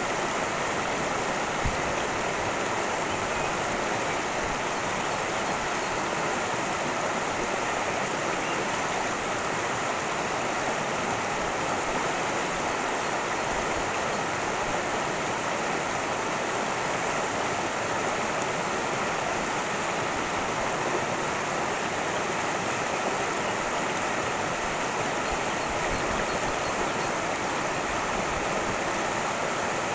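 A cascading stream rushing and splashing over rocks, a steady, unbroken wash of water noise.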